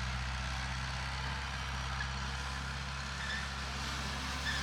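Heavy construction machine's diesel engine running steadily at a constant pitch, with a few faint short high chirps over it.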